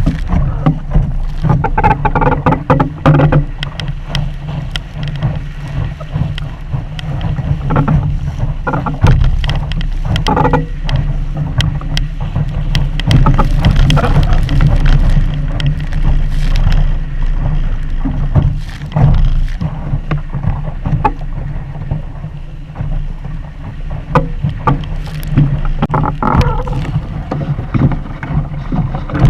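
A Sunfish sailboat under way: wind rumbling steadily on the microphone, with water splashing against the hull and frequent irregular knocks.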